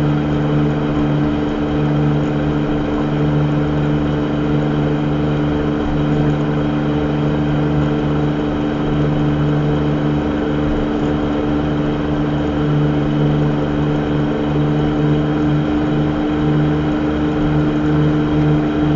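Steady hum of a car idling with the engine running, heard from inside the stopped car's cabin.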